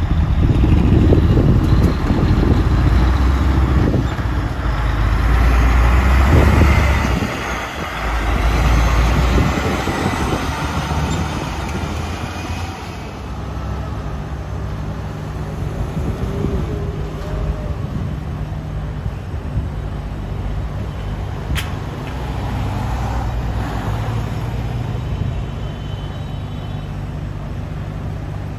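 Heavy diesel trucks passing, with deep engine and road rumble that swells and fades several times in the first dozen seconds. After that a steadier, quieter engine note runs on.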